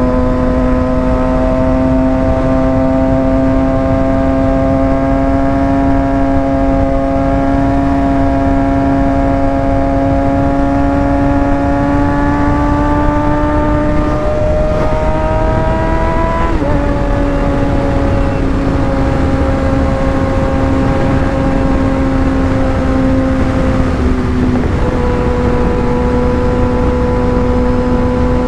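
Motorcycle engine heard at the rider's helmet mic while riding, with wind rush underneath; the engine note climbs slowly as the bike pulls in gear. Around two thirds of the way through, the note breaks and drops with a gear change, then holds a steady cruise with another short dip near the end.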